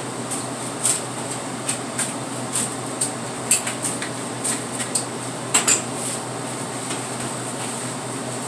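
Irregular metallic clinks and clatter of kitchen tools being handled, thinning out after about six seconds, over a steady background hum.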